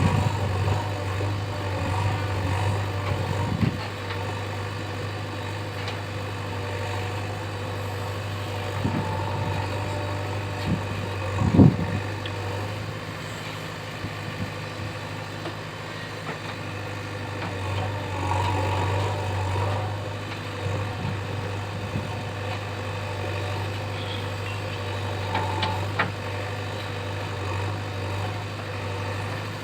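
JCB 3DX backhoe loader's diesel engine running steadily, with a few knocks and clunks from the working machine, the loudest about twelve seconds in.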